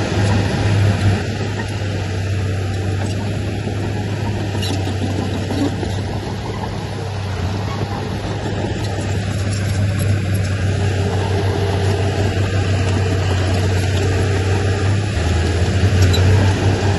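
Diesel engine of heavy earthmoving machinery (dump truck or bulldozer) running with a steady low drone. It eases off after a second or so and works harder again near the end.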